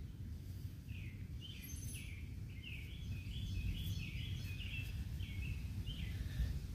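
A songbird calling a string of short, slurred chirps, about two a second, over a steady low rumble.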